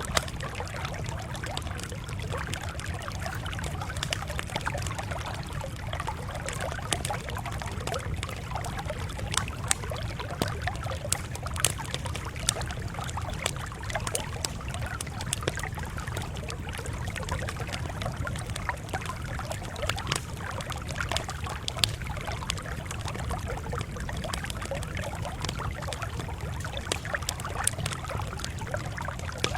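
Campfire crackling steadily, with frequent sharp irregular pops over a constant low rumble.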